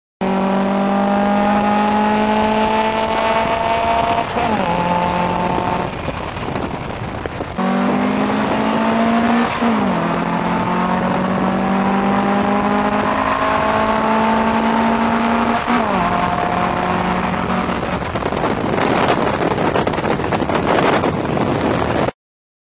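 Car engine accelerating hard at wide-open throttle, its pitch climbing steadily and dropping sharply at each upshift, about 4.5, 10 and 16 seconds in.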